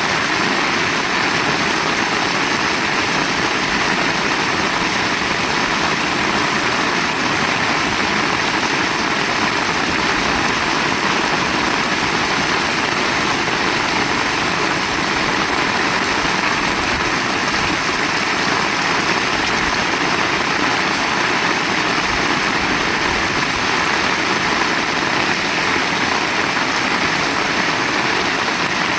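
Heavy rain falling in a dense, steady hiss, unbroken and without any single drops or thunder standing out.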